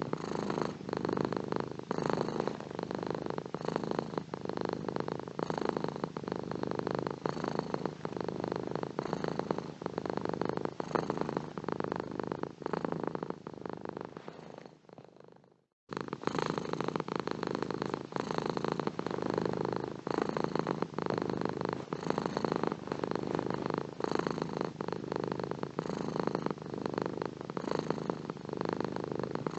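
Domestic cat purring steadily in a fast, even pulse. About halfway through the purr fades to a moment of silence, then starts again abruptly.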